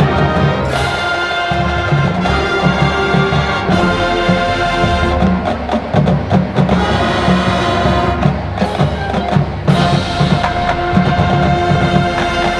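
High school marching band playing a classic rock arrangement: sustained brass chords over busy drumline and bass drums, with big accented hits about a second in, near four seconds and near ten seconds.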